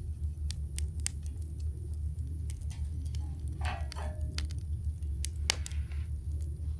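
Campfire crackling: scattered sharp pops and snaps of burning wood over a steady low rumble, with a brief hiss about halfway through.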